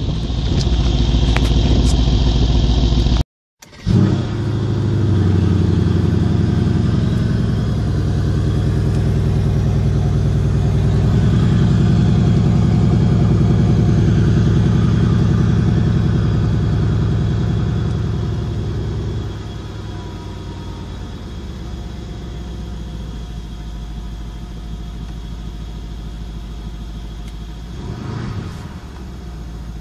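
Wind buffeting the microphone, then after a brief cut the Mercedes-AMG CLS 63's 5.5-litre twin-turbo V8 starts with a short flare and runs at a raised cold idle, heard from inside the cabin. About two-thirds of the way through, the idle drops to a lower, quieter, steady level as it settles.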